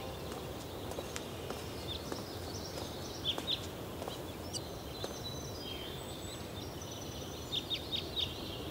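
Outdoor ambience of small birds chirping over a steady low hiss: a couple of short chirps near the middle, then a quick run of four or five chirps near the end.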